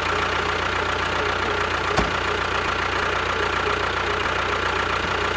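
An engine running steadily at idle, with a single sharp click about two seconds in.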